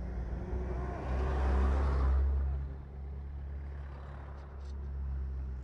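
Motorcycle engine running steadily under way, with a louder swell about a second in that fades after two seconds.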